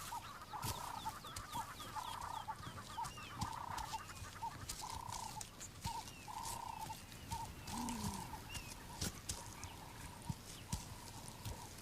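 A bird calling over and over in short clucking notes, some clipped and some drawn out, with scattered clicks and rustles and faint high chirps from other birds.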